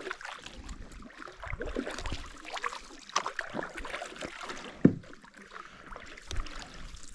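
Ultralight canoe being paddled: light splashing and dripping of paddle strokes in the water, with scattered small knocks and one sharp knock about five seconds in.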